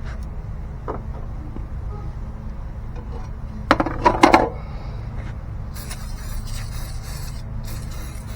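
Sheet metal of a blower wheel and housing being handled and brushed during cleaning: a burst of quick ringing metallic clinks and rattles a little before halfway, the loudest sound here, then a hissy scrubbing in the last few seconds, over a steady low hum.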